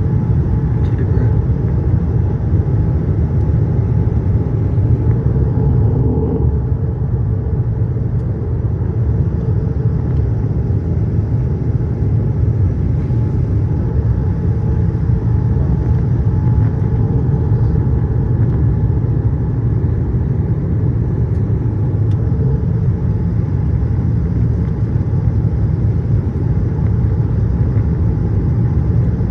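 Steady low rumble of cabin noise inside a Boeing 787-8 airliner, with engine and airflow noise and a faint steady hum.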